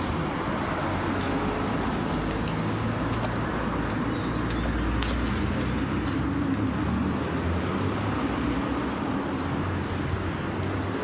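Road traffic: a steady rumble of car engines and tyres with a low hum that swells and shifts as vehicles pass.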